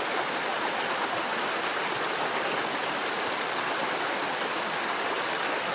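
Mountain stream rushing steadily over rocks, an even wash of water noise with no breaks.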